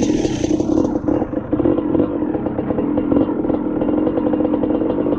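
Dirt bike engine running at a steady speed, with some rattling.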